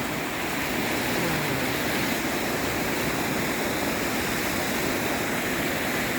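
Creek water rushing in a steady, even wash.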